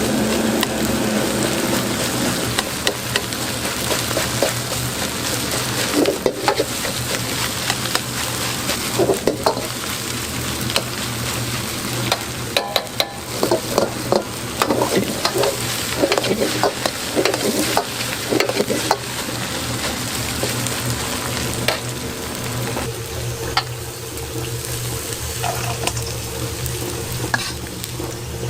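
Egg fried rice sizzling in a hot pan as it is stir-fried, with a metal spatula scraping and clinking against the pan in quick irregular strokes. A steady low hum runs underneath.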